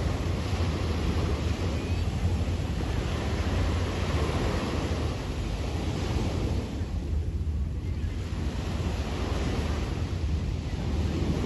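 Sea waves washing onto a beach in a continuous surf, easing about two-thirds of the way through and then building again, with wind rumbling on the microphone.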